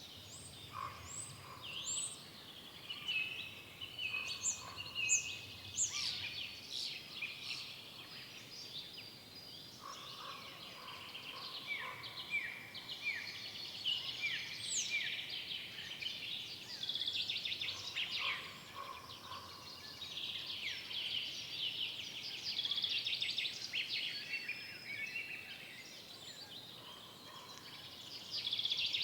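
Several songbirds singing at once in woodland, overlapping whistles, chirps and trills. A run of short notes that slide downward, repeated about once a second, stands out in the middle.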